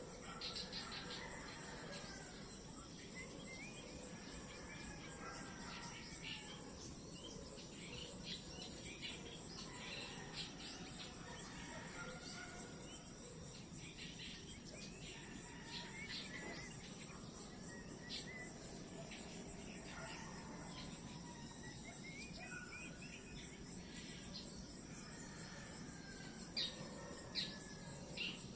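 Insects trilling steadily in a continuous high-pitched chorus, with birds chirping and calling on and off over it; a few louder, sharp chirps come near the end.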